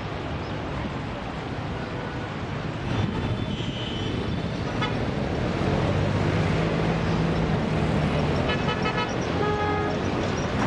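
Street traffic with a steady rushing background, a vehicle engine droning past in the middle, and car horns sounding twice, briefly about three seconds in and longer near the end.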